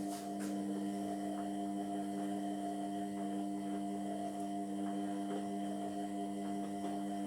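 Indesit MyTime washing machine's motor running steadily, turning the drum during the wash, with a steady hum that starts suddenly just before.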